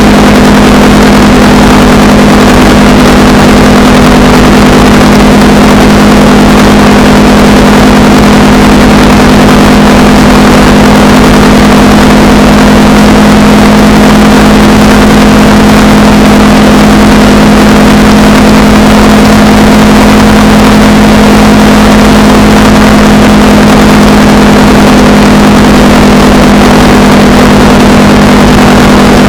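Honda Rebel 300 motorcycle engine holding a steady cruising speed, its note unchanging, under a loud, even rush of wind and road noise.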